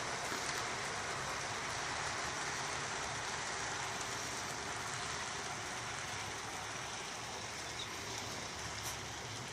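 Steady background hiss with a faint low hum.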